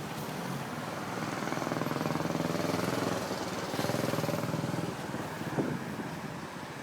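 A motor vehicle's engine passing by, growing louder toward the middle and fading again.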